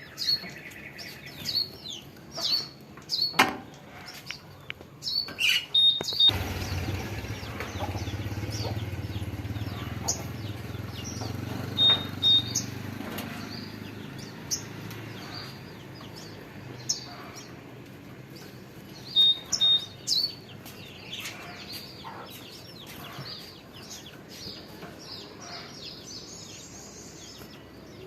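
Fledgling small birds chirping, with short, high calls again and again. A low steady hum comes in about six seconds in and fades away over the next several seconds.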